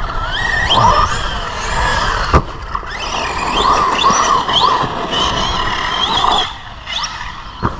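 Brushless electric motor and drivetrain of an Arrma Granite RC monster truck, converted to 3S with a 2300 kV motor, whining in repeated throttle bursts that rise in pitch, with tyres churning dirt. A sharp knock about two and a half seconds in, and the motor sound drops away about six and a half seconds in.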